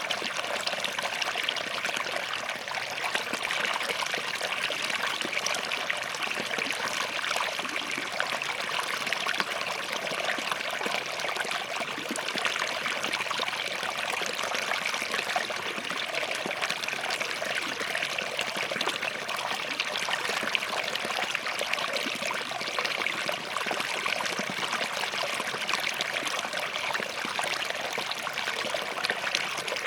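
Small forest stream flowing and trickling steadily over rocks.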